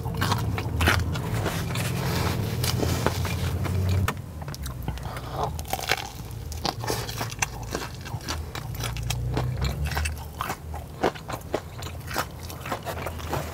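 Close-miked biting and chewing of a Korean corn dog with a crispy fried-chicken coating, with many sharp crunches as the crust breaks between the teeth.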